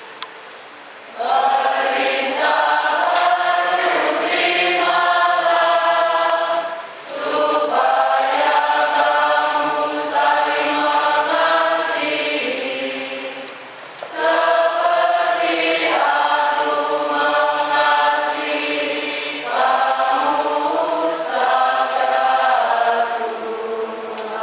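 A choir singing a church hymn. It starts about a second in and goes in phrases of roughly six seconds, with short pauses between them.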